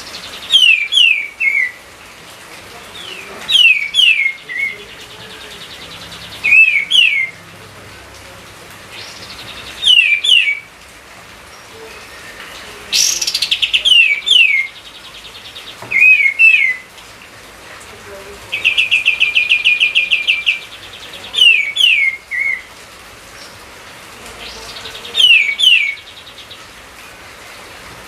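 A songbird singing a short phrase of two or three quick, downslurred whistles, repeated about every three seconds over a steady hiss. About two-thirds of the way through it gives a fast, even rattling trill.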